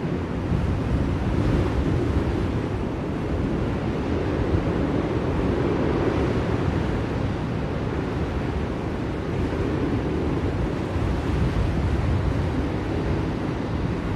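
Blizzard wind: a steady, dense rushing noise, heavy in the low end, swelling and easing slowly.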